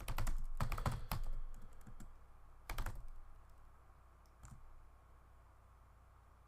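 Typing on a computer keyboard in short bursts: a quick run of keystrokes at the start, another short burst about three seconds in, then a single click.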